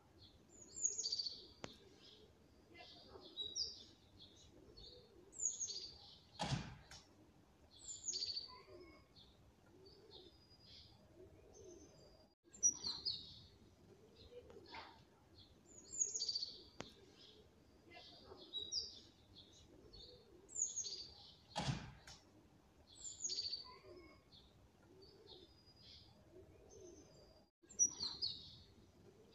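Small birds chirping and twittering in short, high calls. The same run of calls, with a sharp click in it, repeats about every 15 seconds, as a looped recording does.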